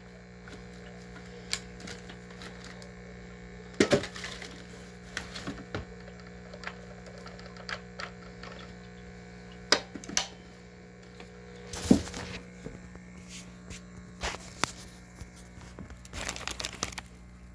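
Scattered clicks and knocks of a Shark PowerDetect vacuum's plastic dust bin being handled and emptied into a garbage pail, over a steady low hum.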